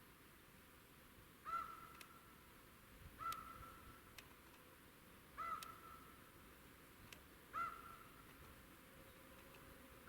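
A bird calling over and over: one short, hoarse call about every two seconds, five in all, each rising and then holding briefly before it fades.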